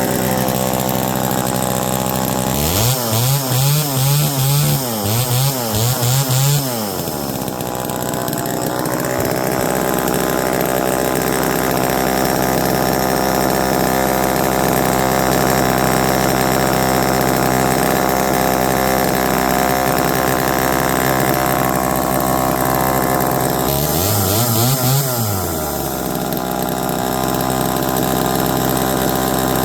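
Homelite EZ two-stroke chainsaw running: it idles steadily and is revved in a quick series of short blips a few seconds in, then revved once more near the end.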